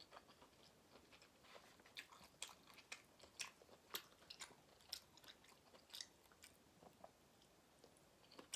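A person chewing food from a seafood boil close to the microphone, heard as faint, irregular wet clicks and smacks.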